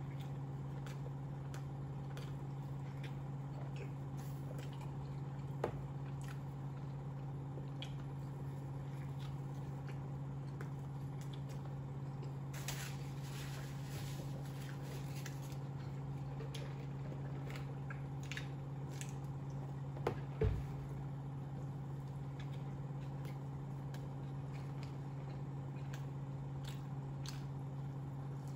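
Close mouth sounds of a person chewing a bite of hamburger: small wet clicks and smacks. A napkin rustles against the mouth for a few seconds around the middle, and a couple of soft knocks come about twenty seconds in, all over a steady low hum.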